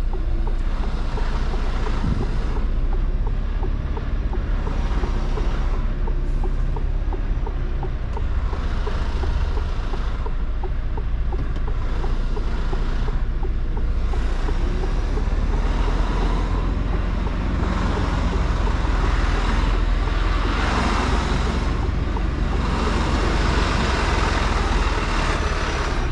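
Mercedes-Benz Actros truck's diesel engine running, heard from inside the cab as a steady low rumble with a hiss that swells and fades. A faint regular ticking sounds through the first half.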